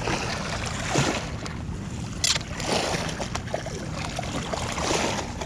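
Shallow ocean water washing and splashing around a wading angler in surges about every two seconds, with one sharp click a little past two seconds in.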